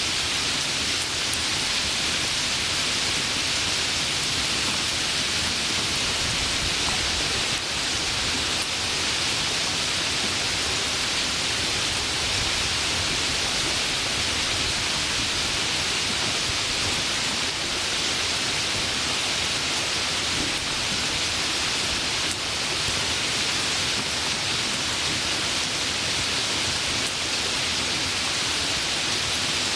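Steady, even rain hiss with no distinct drops or thunderclaps standing out.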